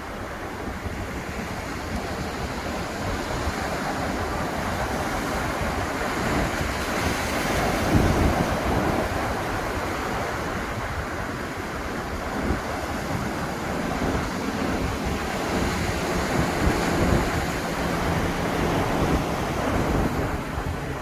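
Ocean surf breaking and washing up a beach in a continuous rush, swelling to its loudest about eight seconds in, with wind on the microphone. A faint low hum joins in the second half.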